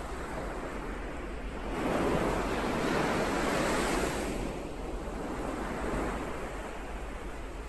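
Ocean surf: a wave breaks and washes in about two seconds in, swelling and then easing off, with a smaller swell near six seconds.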